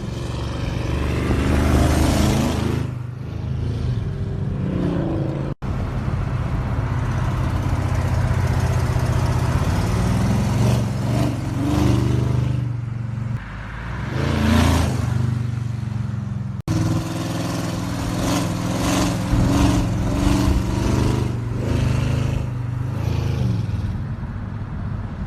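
Chrysler 300C's 5.7-litre Hemi V8 engine and exhaust while driving, its exhaust still awaiting repair, surging in pitch under acceleration several times. The sound breaks off abruptly twice.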